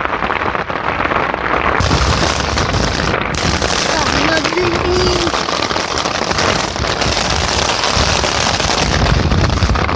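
Heavy rain pouring down, a loud steady hiss, with low rumbling surges on the microphone now and then.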